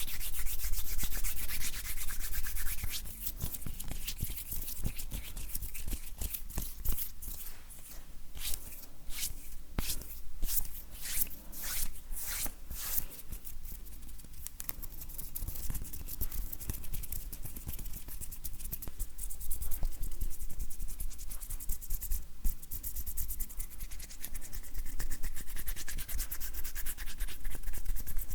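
Dry bare hands rubbing together close to the microphone, a continuous rustle of skin on skin, with a run of quicker, crackly strokes between about 8 and 13 seconds in.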